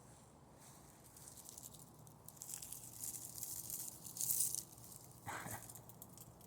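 Crisp crackling and pattering of ice, swelling about a second in and loudest around four seconds in, with a duller knock about five seconds in.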